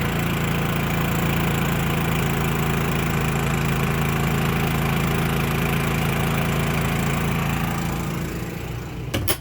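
Champion 3100 dual fuel inverter generator's engine running steadily under the load of an RV air conditioner with its compressor on. Near the end the engine fades, a sharp knock sounds, and the engine is then much fainter.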